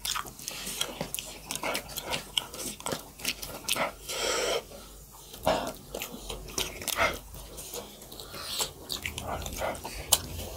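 Close-miked eating sounds: wet chewing and lip-smacking of makai dhido (stiff maize-flour porridge) with chicken curry, eaten by hand, with many short sharp clicks and a longer breathy sound about four seconds in.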